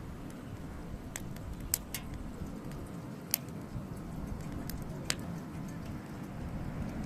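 Hardwood campfire crackling: a handful of sharp, scattered pops from the burning logs over a low steady rumble.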